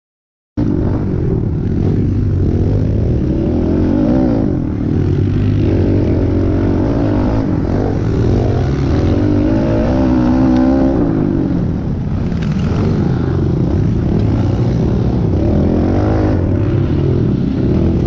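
Kawasaki KLX110 pit bike's small single-cylinder four-stroke engine revving up and down as it is ridden, starting abruptly about half a second in.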